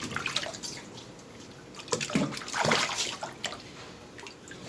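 Water splashing and trickling as a small kitten is washed by hand, with louder splashes about two and three seconds in.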